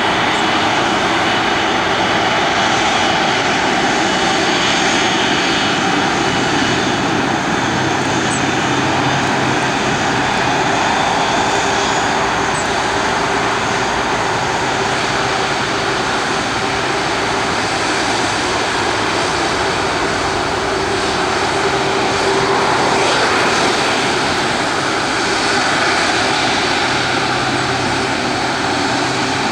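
Airliner engines running loud and steady, a dense rushing noise with faint droning tones that shift slightly over time, as a jet moves on or near the runway.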